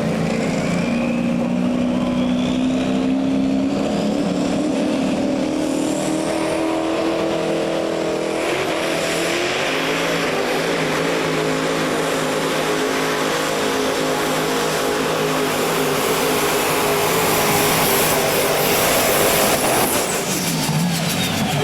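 Diesel pulling truck's engine running flat out under load down the pull track, with a rising turbo whistle early on. The engine note is steady and grows louder and rougher partway through. Near the end the pitch drops as the engine comes off the throttle.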